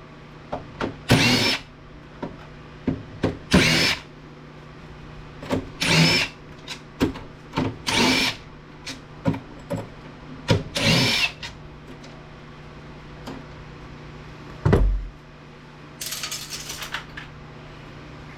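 Power drill-driver backing screws out of an APC battery backup unit's case in about five short bursts, the motor's pitch rising and falling with each one. Small clicks of parts being handled come between the bursts, with a single heavy thud near the end.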